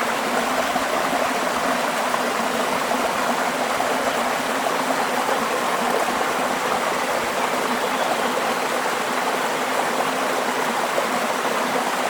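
Small waterfall splashing steadily, a constant rush of falling water.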